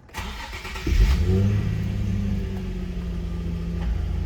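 2008 Nissan 350Z's 3.5-litre V6 with a Nismo exhaust started: the starter cranks briefly, the engine catches about a second in with a rev flare, and the revs drop into a steady idle.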